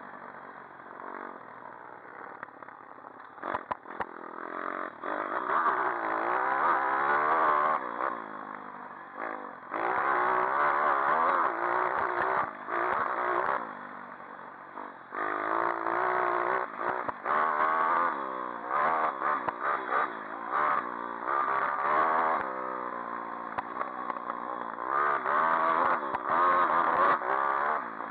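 Pit bike engine revving in repeated bursts, its pitch climbing as it accelerates and dropping as the throttle is backed off, with a few sharp clicks about four seconds in.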